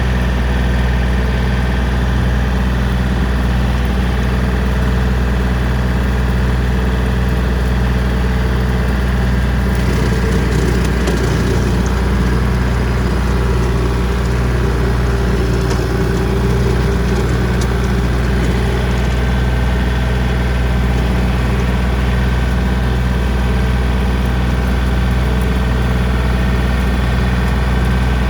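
John Deere 3025D compact tractor's diesel engine running steadily while pulling a brush hog. From about ten seconds in, a rougher, hissing layer sits over the engine for several seconds.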